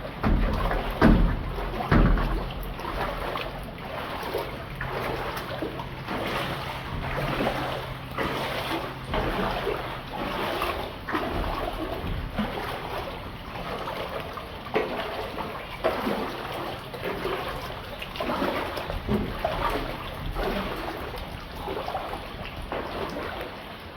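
Water splashing and sloshing in irregular surges, with a few heavier thumps in the first couple of seconds and a low steady hum through roughly the first half.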